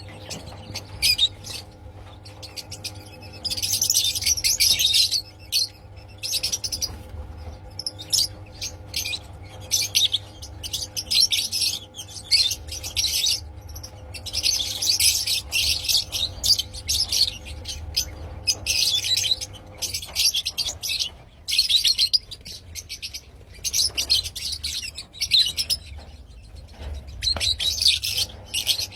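A flock of Fischer's lovebirds chattering in shrill, rapid chirps that come in repeated bursts, over a steady low hum.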